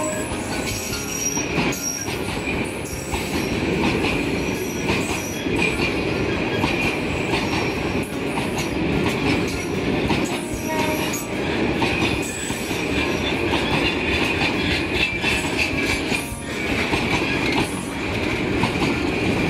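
Freight train of tank wagons rolling slowly past. The wheels clatter over rail joints, with a steady high metallic squeal of wheels on the rails and short sharper squeaks above it.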